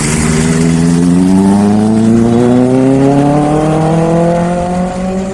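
Sport motorcycle engine running loudly, its pitch climbing slowly and steadily for several seconds as it accelerates.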